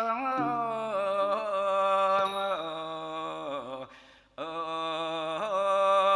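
A Thai classical singer holds a long, slowly bending melismatic vocal line. It breaks off briefly about four seconds in, then carries on.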